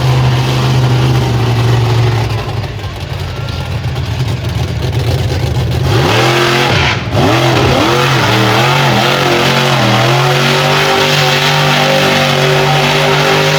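Monster truck engine running loud, then revving hard about six seconds in, its pitch swooping up and down several times in quick succession before settling into a steady high-revving note.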